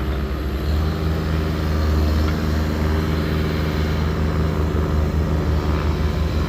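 Skid steer engine running steadily. It grows louder a little under a second in.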